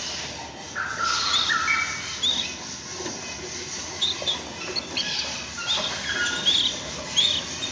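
Canary chirping in short, squeaky call notes, scattered every second or so, over a steady hiss of splashing bath water.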